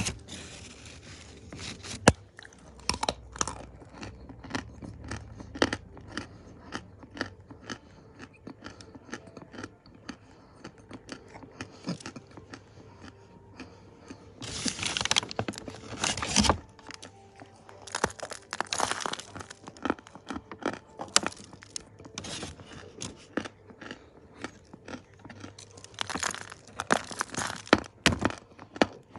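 Chunks of dry Ural clay crunching as they are bitten and chewed close to the microphone, a steady run of sharp cracks and crackles with denser bursts of crunching around the middle and near the end.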